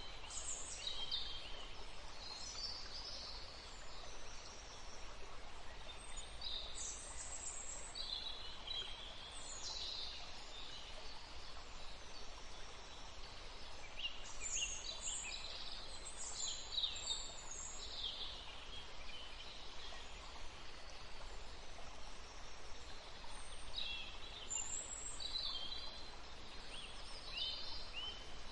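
Several songbirds singing in short, high-pitched phrases of chirps and falling sweeps, coming in clusters with brief gaps, over a steady soft background hiss.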